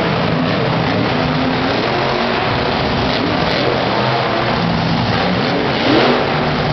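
Monster truck engine running loud, revving up with a rising pitch near the end.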